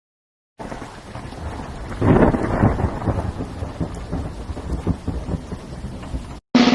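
Thunderstorm sound effect: steady rain with a clap of thunder about two seconds in that rumbles and fades, cut off abruptly near the end.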